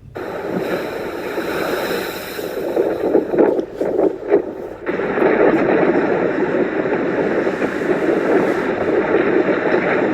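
Wind in a snowstorm buffeting the microphone, a steady rushing roar with gusts, changing abruptly about five seconds in.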